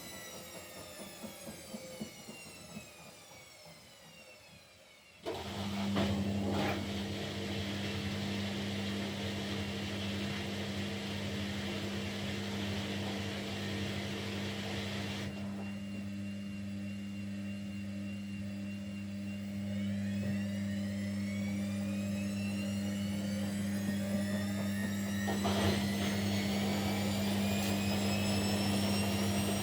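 Kunft washing machine: the drum motor's whine falls in pitch as it slows, then about five seconds in a steady low hum starts suddenly and keeps going, typical of the drain pump. From about twenty seconds in, a rising whine comes over it as the drum spins up again.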